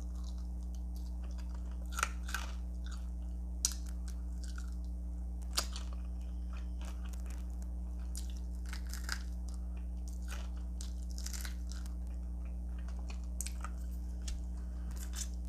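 Close-up chewing and crunching as someone eats Flamin' Hot Cheeto-coated fried chicken wings, with a few sharper crisp bites among steady chewing. A steady low electrical hum sits underneath.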